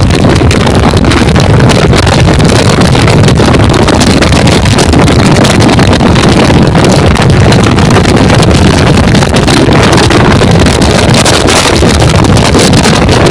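Heavy wind buffeting the microphone over the steady rumble and clatter of a train running at high speed.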